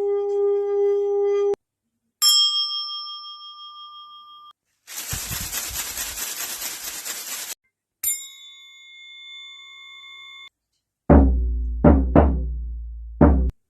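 A sequence of sound-healing instruments. A singing bowl's sustained ring stops about a second and a half in. A Dharma meditation bell is struck once and rings out. A chapaka leaf rattle is shaken for a couple of seconds. A tuning fork is struck and rings. Near the end comes a shamanic frame drum, struck four times with deep booms.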